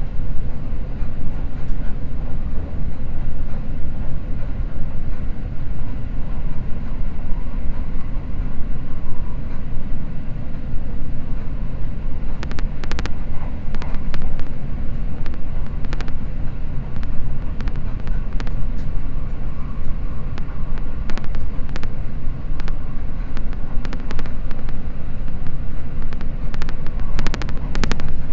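Running noise of a Seibu Red Arrow limited express train at speed, heard inside the cabin: a steady low rumble, with sharp clicks and ticks joining from about halfway.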